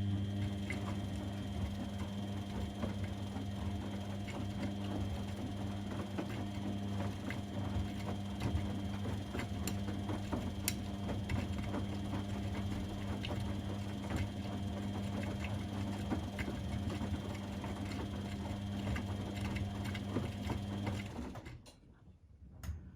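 Washing machine running: a steady hum with rattling and clicking over it, which cuts off suddenly near the end.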